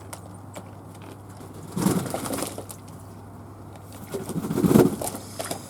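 Fantail doves cooing, in two bouts: one about two seconds in and a louder one around four and a half seconds in.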